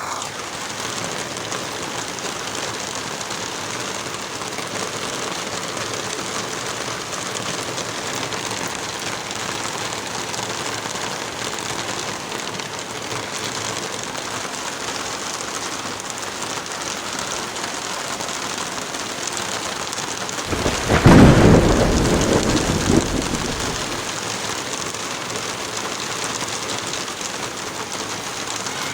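Heavy rain falling steadily. About two-thirds of the way through, a loud clap of thunder breaks in and rumbles away over a few seconds.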